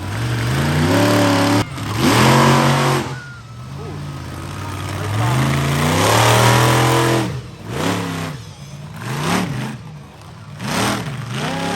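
Monster truck engine revving hard in two long surges, the first about a second in and the second about halfway through, then a quick series of shorter throttle bursts that rise and fall near the end.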